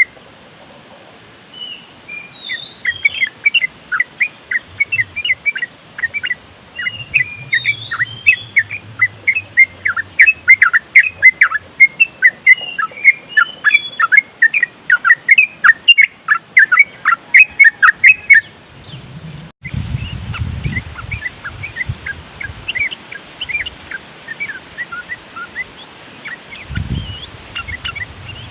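Yellow-vented bulbul (trucukan) song in a fast, rolling run of short chirping notes (ngeropel), densest through the middle. After a brief break about two-thirds in, softer chirping continues over a low wind rumble.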